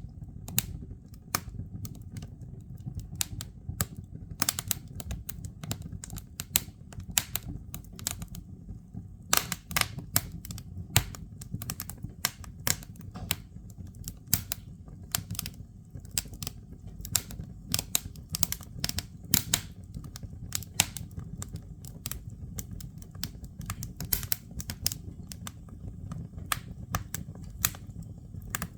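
Burning firewood crackling and popping in a fireplace: irregular sharp snaps, some in quick clusters, over a steady low rumble of the flames.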